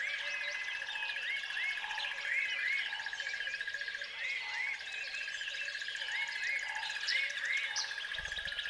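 Nature chorus of many birds chirping, with repeated hooked rising-and-falling calls, over a continuous high-pitched pulsed trill and softer low calls repeating about once a second.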